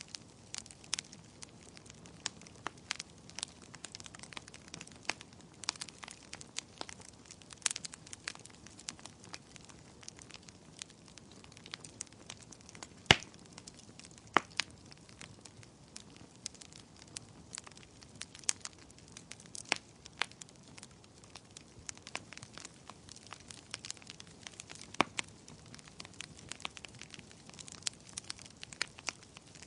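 Wood fire in a fireplace crackling, with irregular sharp pops and snaps over a faint low hiss; the loudest snap comes about 13 seconds in.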